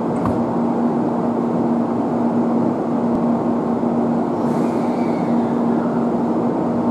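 N700 series Shinkansen train standing at the platform before departure, its onboard equipment humming steadily: a constant low tone over an even rushing noise.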